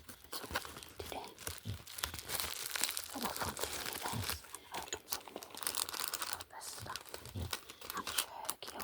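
Packaging being crinkled and torn open by hand during an unboxing: a busy, crackly run of crinkles and tearing that starts about a second in and dies down near the end.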